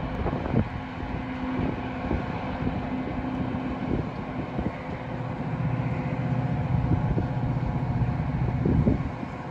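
A vehicle engine running steadily, louder from about five seconds in and easing off near the end, with scattered clicks and wind on the microphone.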